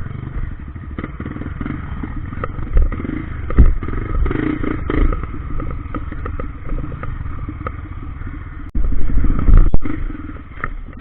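Trail motorcycle engine running on a ride, with scattered knocks and rattles; it gets suddenly louder for about a second near the end.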